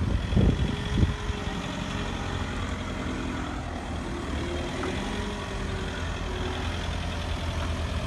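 Truck engine running steadily at low revs, with a few short knocks about a second in.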